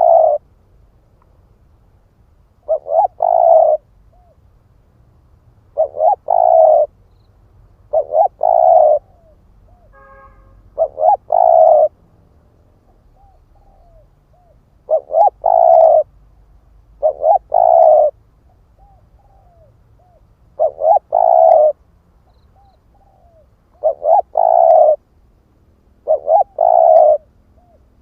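Spotted dove cooing: a phrase of a few quick notes ending in a longer coo, repeated about ten times every two to three seconds, with a short pause midway.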